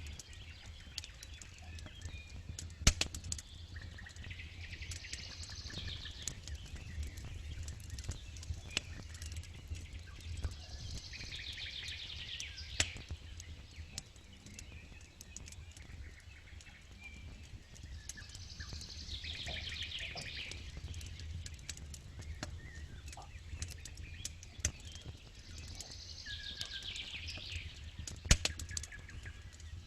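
Campfire crackling with scattered sharp pops, three of them much louder: one near the start, one about midway and one near the end. Behind it a songbird repeats a short trilled phrase about every seven seconds.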